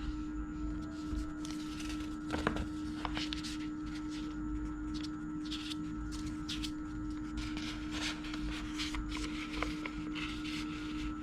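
Sheet of paper being handled, folded and creased: scattered crisp rustles and short crackles, over a steady low hum.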